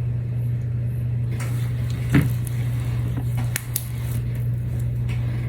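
A few light clicks and taps of small objects being handled on a hard work surface, over a steady low hum.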